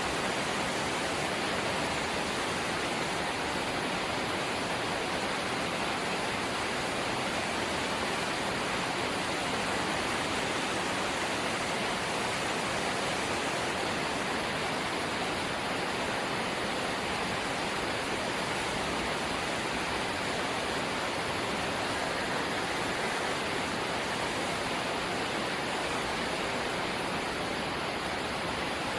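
Steady light rain, an even hiss with no separate drops standing out.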